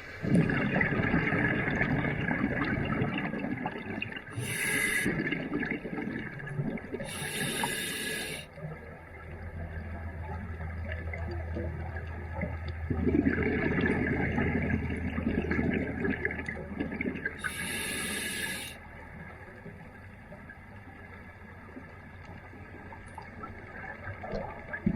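Scuba diver's regulator breathing underwater: a hissing, bubbling noise with three short, bright rushes of exhaled bubbles. A steady low hum runs through the middle stretch.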